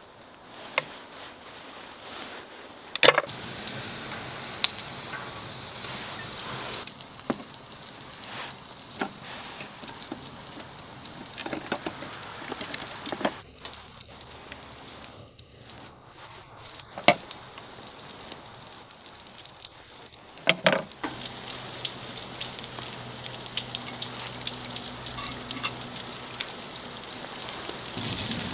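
Food sizzling in a pan, with scattered sharp clicks and knocks of utensils. About two-thirds of the way through, a low steady hum joins in.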